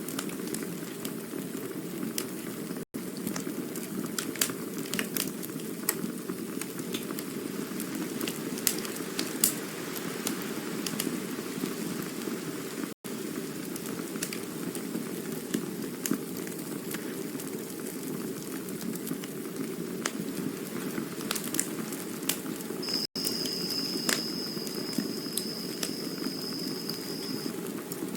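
Campfire burning, with scattered sharp crackles and pops over a steady low rush of flame. About three quarters of the way through, a thin high whistle holds for about four seconds. The sound cuts out for an instant three times, about ten seconds apart.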